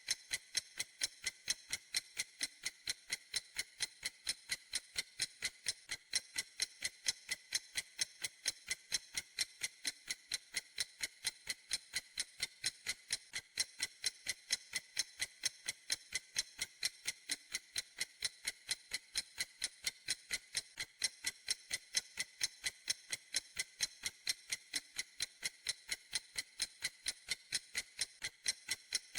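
Clock ticking steadily: crisp, high, evenly spaced ticks, several a second, with no change in pace.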